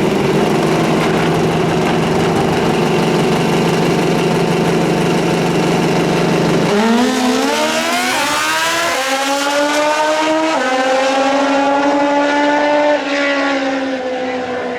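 Drag racing motorcycle engine held at steady revs for several seconds, then launching, its pitch climbing and stepping through several quick gear changes as it accelerates, and falling away slightly near the end.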